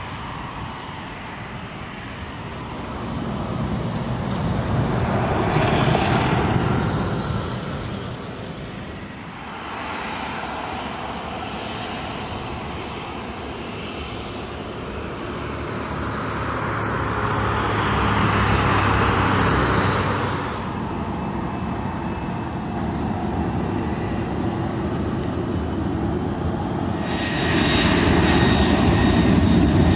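Aircraft engines running on the airfield. They swell louder about six seconds in and again just before twenty seconds, then build once more near the end, when a thin steady whine comes in.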